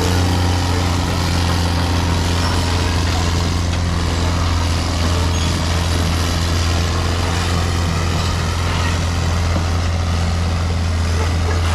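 Heavy truck's diesel engine running steadily: a constant low drone with a steady overlay of road and wind noise.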